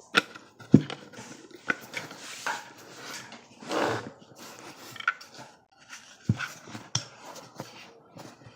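Irregular sharp clicks and knocks from objects being handled, with a longer rustling or scraping noise about four seconds in.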